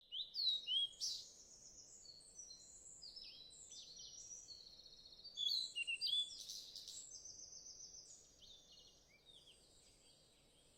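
Several wild birds singing and chirping, with quick high whistled notes, slurs and trills overlapping. The calls are loudest just after the start and again about halfway through, then thin out, with a thin steady high tone in the latter part.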